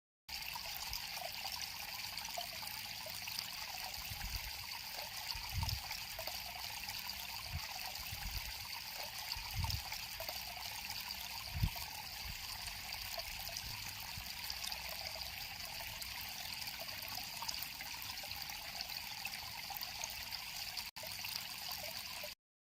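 River water flowing and trickling steadily, with a few soft low thumps in the middle stretch.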